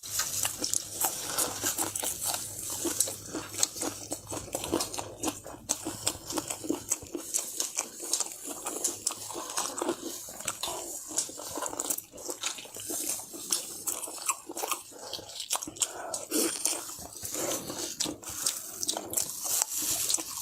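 Close-up chewing and biting of food, with crunching and many quick, irregular wet clicks of the mouth.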